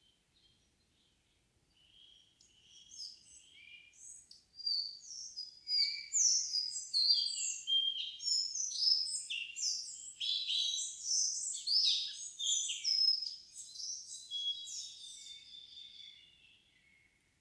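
A songbird singing one long, fast, varied warbling song of many short high notes, starting softly about two seconds in, growing louder, then fading out near the end.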